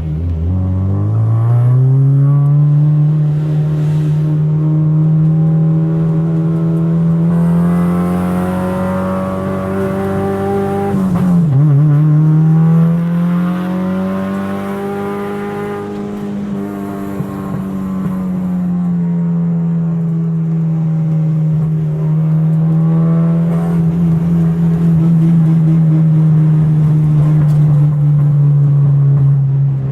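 Car engine running hard under acceleration: its pitch climbs over the first two seconds and holds high, drops sharply at a gear change about eleven seconds in, then climbs again and settles to a steady pitch.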